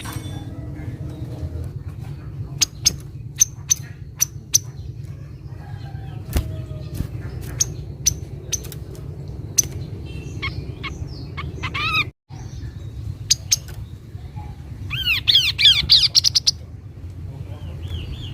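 Kaso-kaso bird calling: scattered sharp, high chip notes, then a fast, loud burst of arching chirps a few seconds before the end, over a steady low background hum.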